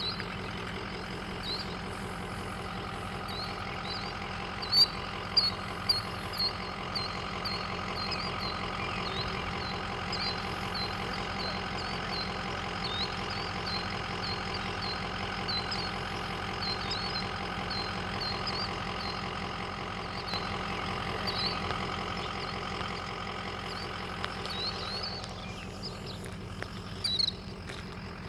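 Vehicle engine idling with a steady hum, while a killdeer gives short, high calls over and over, about one or two a second; these are the alarm calls of a parent bird guarding its chicks.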